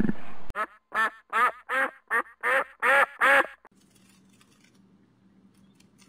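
An animal giving a quick series of about nine short calls, each arching up and down in pitch and mostly growing louder, over about three seconds, followed by a faint low hum.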